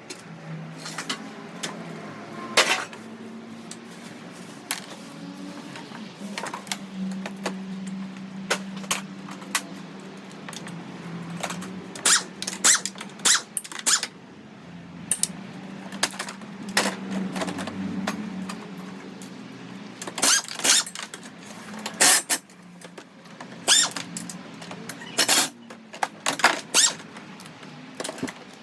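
Irregular metallic clinks, clacks and knocks of hand tools and parts being worked on a car being dismantled, a few sharp loud ones in clusters, over a low steady hum.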